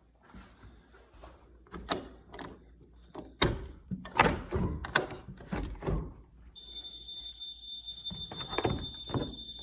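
A door being handled and opened, with several knocks and clatters, then a steady high-pitched electronic tone that starts about two-thirds of the way in and keeps going.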